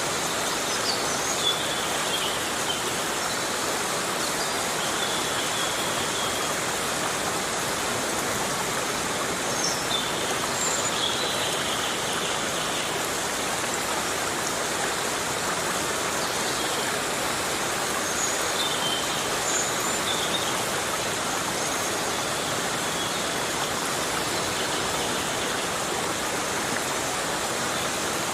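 Heavy rain falling steadily in a rainforest, an even wash of hiss. Faint high chirps come through now and then, around the start, the middle and later on.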